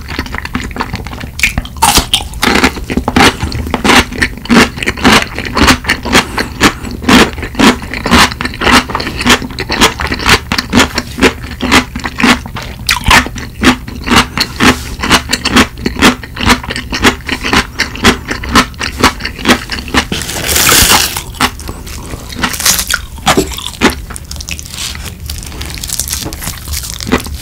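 Close-miked crunching of chonggak (ponytail radish) kimchi being chewed, a steady run of crisp crunches about two a second. A longer rush of noise lasts about a second, some twenty seconds in. Near the end a wooden spoon scrapes through curry rice in the bowl.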